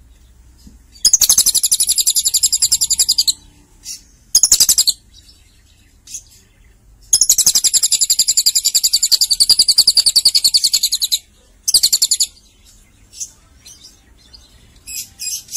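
Lovebird singing in rapid, high-pitched trills that copy a cililin's song: two long trills of about two and four seconds, each followed by a short one, then scattered chirps near the end.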